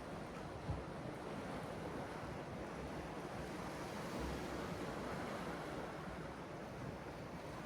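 Sea surf washing steadily onto the shore, a continuous rushing hiss, with wind on the microphone and one short low thump less than a second in.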